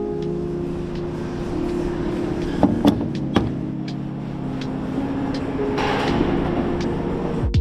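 A vehicle moving: a steady rumble with several steady low hums, and a few sharp clicks about two and a half to three and a half seconds in.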